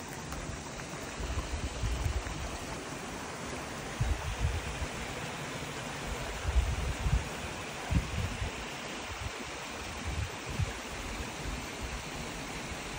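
Small creek of clear water running steadily. Short low rumbles of wind buffeting the microphone come in several times.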